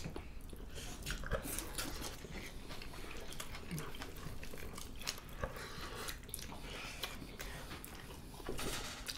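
Close-miked eating sounds: irregular chewing, wet lip smacks and small crackling clicks as mutton curry and salad greens are eaten with the hands.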